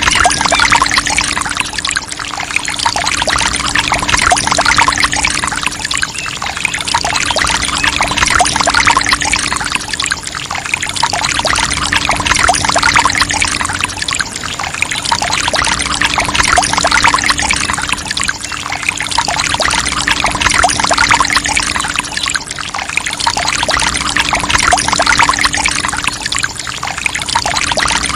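Water from a mini water pump pouring and splashing, swelling and easing about every four seconds, over a steady low hum.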